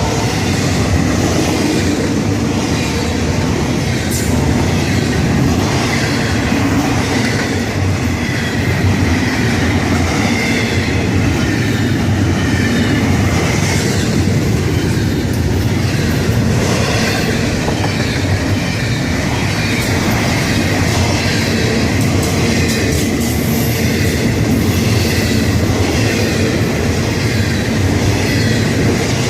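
Florida East Coast freight train's cars rolling past at speed: a steady, loud rumble of steel wheels on rail with clicks over the joints and a faint wheel squeal.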